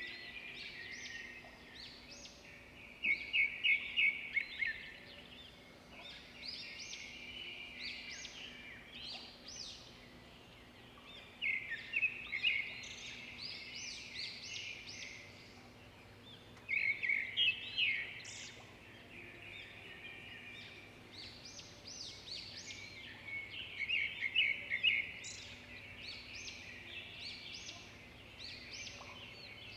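Small birds chirping and twittering in quick trills, in loud bursts every several seconds with quieter chirps in between.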